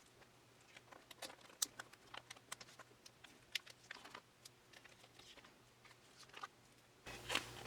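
Faint, scattered clicks and crinkles of plastic card sleeves and binder pages being handled, as sleeves are slipped into the page pockets.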